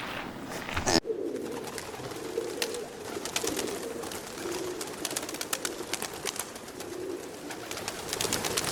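Birds giving low, repeated cooing calls, with scattered clicks and scratches around them.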